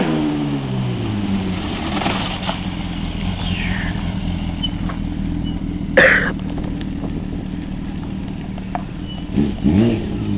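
Honda CBR1000RR inline-four engine with its revs falling away, then running steadily at low revs as the bike rolls along. About six seconds in there is a loud sudden sound, and near the end two quick throttle blips.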